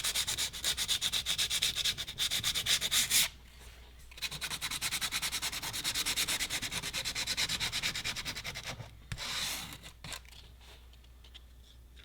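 Coarse sandpaper rubbed quickly back and forth over a plastic edge, about five strokes a second, roughening it for bonding. The strokes stop briefly about three seconds in, resume, and end with one longer rub.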